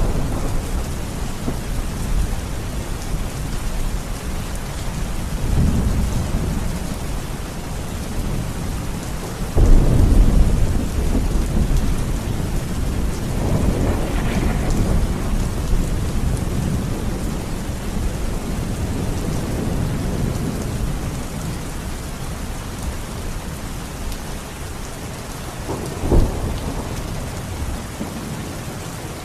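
Steady rain with rolling thunder. A loud thunderclap breaks in about ten seconds in and rumbles on, there are softer rumbles before and after it, and a short sharp crack comes near the end.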